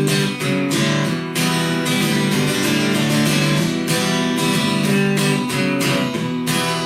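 Acoustic guitar strummed in a steady rhythm: an instrumental passage between the sung lines of a country song.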